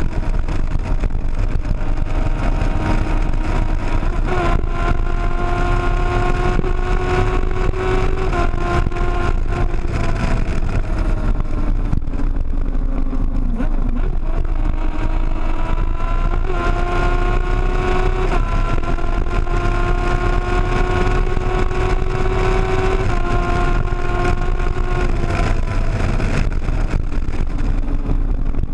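Sportbike engine running hard at highway speed, with heavy wind noise over the microphone. The engine note holds high, eases off and dips about halfway through, then climbs again, with a few sudden steps in pitch.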